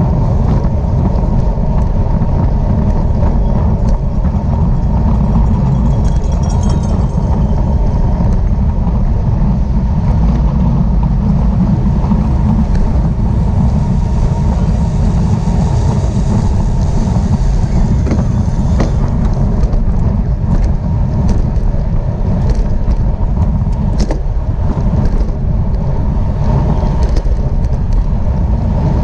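Heavy wind rush buffeting a camera microphone at bicycle racing speed: a loud, steady low rumble, with scattered faint clicks over it.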